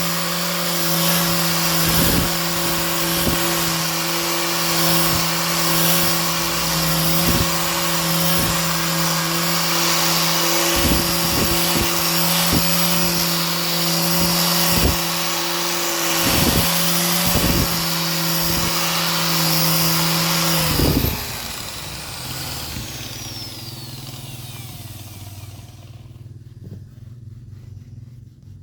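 Electric woodworking power tool running at steady speed with a held hum, knocking repeatedly as it works the wood. About 21 seconds in it switches off and winds down with a falling whine, leaving a faint low hum.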